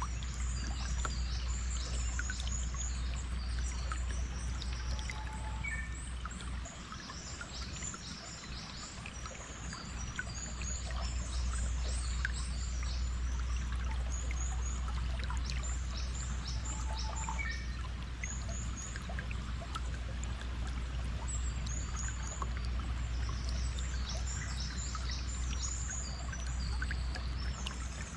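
Stream water flowing steadily with a low rumble, while small birds chirp in quick high flurries throughout.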